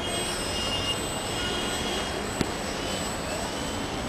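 Electric RC model airplane flying, its brushless motor and propeller giving a steady high whine that rises briefly near the end. A single sharp click comes about two and a half seconds in.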